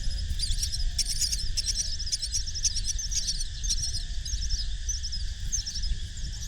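Nestling birds chirping: many rapid, thin, high chirps, densest in the first half, over a steady low rumble.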